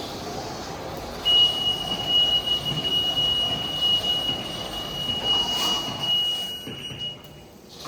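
PDQ ProTouch Tandem automatic car wash running, with a steady high electronic tone from the wash sounding for about six seconds, starting about a second in and cutting off near the end, when the machine noise also drops.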